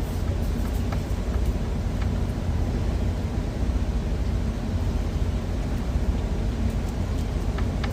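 Steady low rumble of an idling truck engine heard inside the cab, with a few faint clicks over it.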